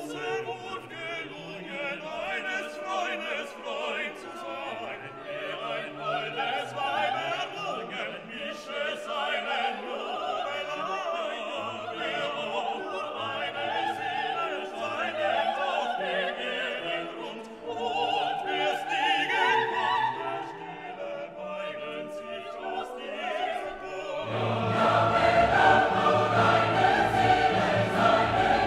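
Classical vocal music: operatic singing with choir and orchestra, the voices holding wavering sustained notes. About 24 seconds in the music grows fuller and louder, with a stronger bass.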